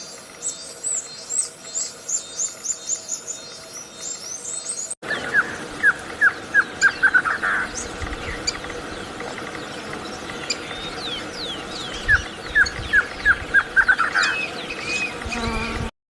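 Small songbirds singing. First comes a rapid run of thin, high, falling notes. About five seconds in, a sudden cut leads to a lower song of quick falling notes that speed up into a short trill, sung twice, before the sound cuts off abruptly near the end.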